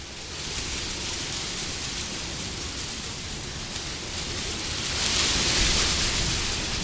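Wind blowing steadily, with a stronger, hissier gust swelling up about five seconds in and easing off again.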